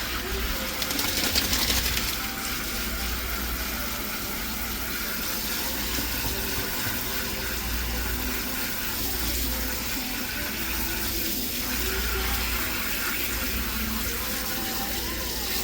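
Steady rush of running water that carries on without a break.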